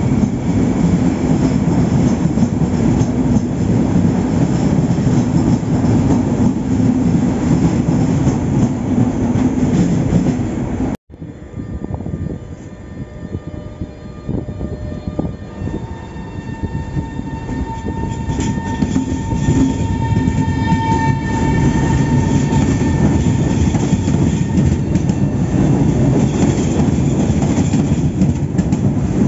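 High-speed electric trains rolling along a station platform. A Frecciarossa's cars rumble steadily past until a sudden cut about eleven seconds in. Then, with a quieter stretch and a steady high whine, an Italo AGV draws in, its rolling rumble building toward the end.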